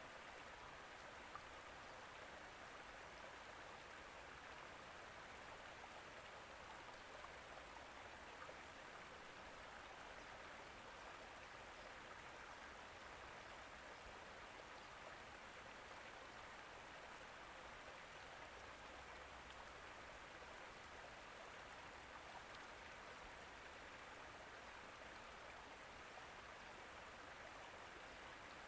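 Faint, steady rushing of water, even and unbroken throughout.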